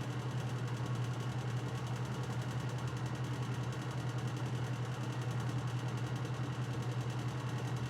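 A steady low mechanical hum with a fast, even pulse, like a small motor running.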